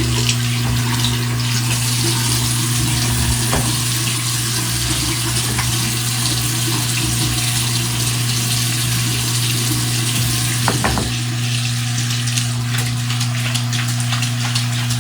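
Water running steadily from a tap, with a steady low hum underneath.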